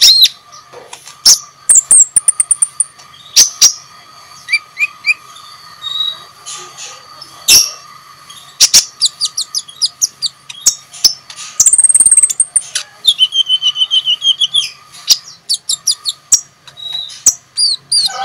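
Sunbird song: loud, sharp high chirps and fast ticking trills in quick runs, with a short buzzy trill midway. A steady faint tone runs underneath.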